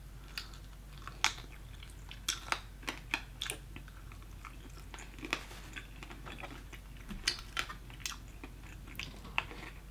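A person chewing and biting crunchy fried food close to the microphone, with irregular short crackles.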